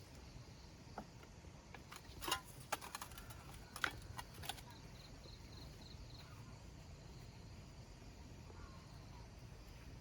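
A quick run of sharp clicks and light knocks between about two and four and a half seconds in, then a few faint high ticks, over a low steady background.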